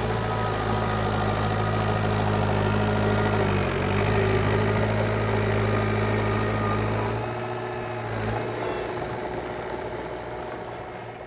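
Heavy construction machine's diesel engine idling with a steady low hum. About seven seconds in, the deep part of the hum drops away, and the sound fades out near the end.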